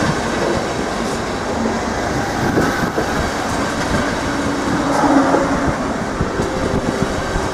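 Passenger coaches of a departing train rolling past close by, their wheels clattering over rail joints and points in a steady run of clicks over a continuous rumble.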